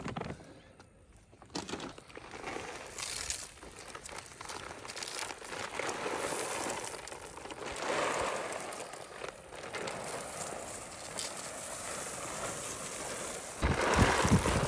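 Irregular rustling and crinkling of gear and material being handled while a ground blind is set up, growing louder near the end.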